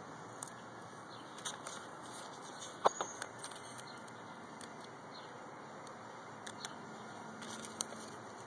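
Small clicks and taps of toy pieces being handled and fitted on, one sharper click about three seconds in, over a steady faint hiss.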